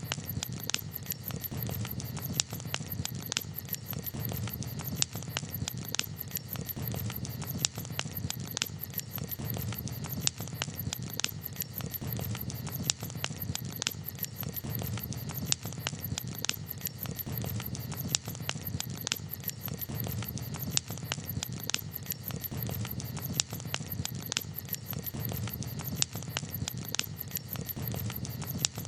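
Wood campfire crackling, with many sharp, irregular pops over a steady low rumble.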